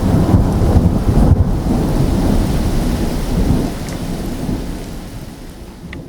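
Thunder rumbling over steady rain, the rumble slowly dying away over the last few seconds.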